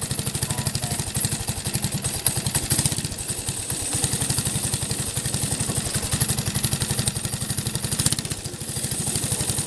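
Small engine of a supermileage car running steadily, driving the wheel through its servo-engaged plate clutch. It dips briefly about three and a half seconds in and again near the end.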